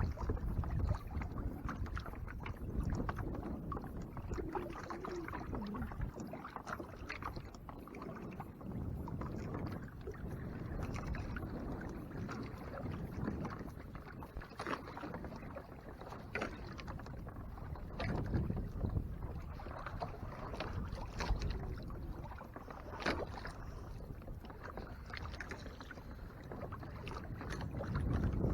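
Water splashing and slapping against the hull of a Hobie Tandem Island kayak moving through 2 to 3 foot swells, with an uneven low rumble of wind on the microphone.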